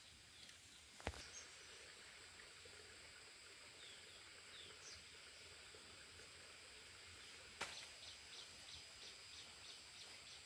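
Near silence: faint countryside ambience with a steady high buzz of insects and a few faint chirps, broken by two short sharp clicks, about a second in and again after about seven and a half seconds.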